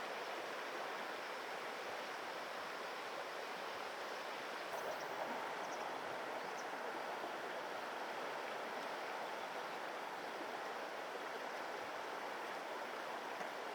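Steady rush of flowing river water, an even noise with no strong events.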